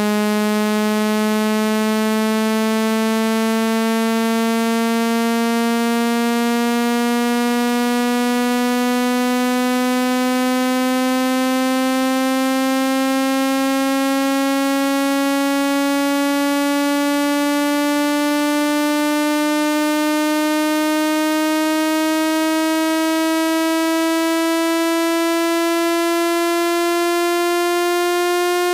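Synthesized speaker-cleaning tone, played loud to vibrate water out of a phone speaker. It is a single buzzy low tone, rich in overtones, that glides slowly and steadily upward in pitch.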